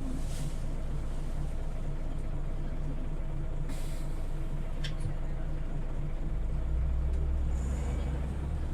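Scania OmniLink city bus heard from inside the cabin, its engine running steadily as it drives. Short hisses of air come a fraction of a second in and again near four seconds, with a brief sharp rattle just before five seconds. The engine's low drone grows louder over the last two seconds.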